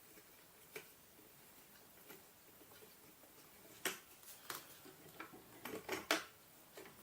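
Light metallic clicks and clinks of hand tools and screws being worked into a TRAMPA mountainboard truck. One click just under a second in, then a quick run of sharper clicks from about four seconds in.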